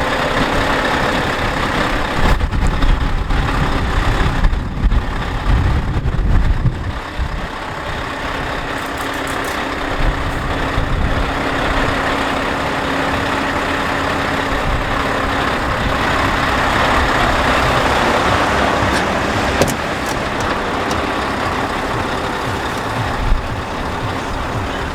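Scania R730's V8 diesel engine running steadily, with heavier low rumble in the first few seconds and a couple of short knocks later on.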